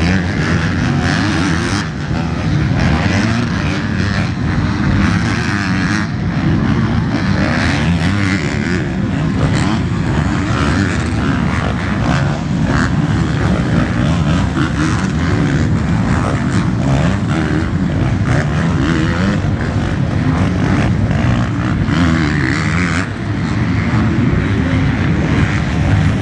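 Motocross race bikes' engines running together in a loud, steady din.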